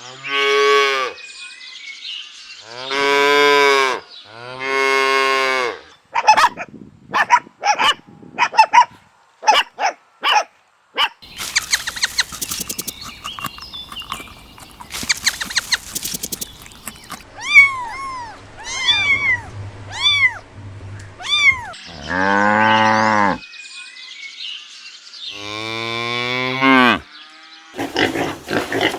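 A string of different animal calls played one after another, cattle mooing among them: long drawn-out calls, a run of short calls, a noisy stretch, and a quick series of arched chirps.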